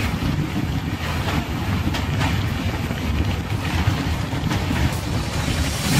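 Steady rumble and rush of a moving passenger train, wheels running on the track.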